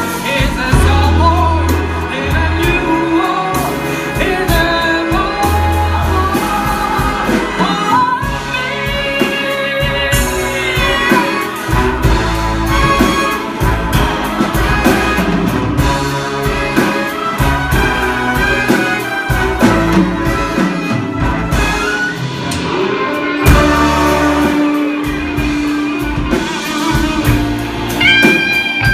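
A band playing jazz-style music led by brass and saxophone, with pitched lines bending and gliding over a steady low bass.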